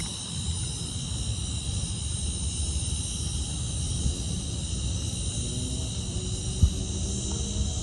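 Distant CP freight locomotive horn, heard faintly as a chord of several tones, mostly in the second half. It sits under low wind rumble on the microphone and a steady insect chorus, and there is one sharp click near the end.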